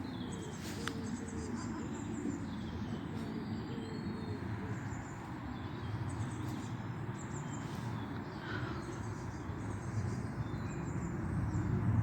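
Small birds twittering repeatedly over a steady low rumbling background.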